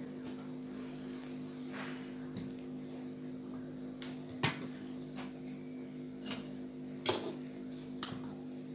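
Several sharp clicks and taps of small plastic parts being handled, over a steady low electrical hum.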